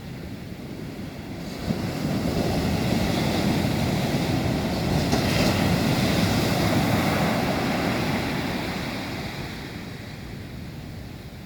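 Ocean surf: a wave swells about a second and a half in, breaks and washes up the beach, then slowly fades away.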